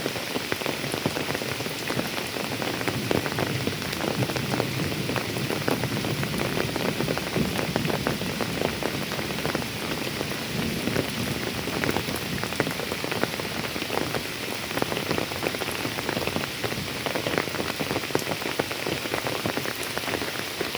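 Steady, heavy rain falling, with many separate drop hits through it.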